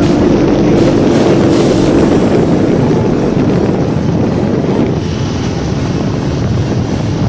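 Motorcycle riding noise: steady wind rushing over a phone microphone, with the motorcycle engine running underneath.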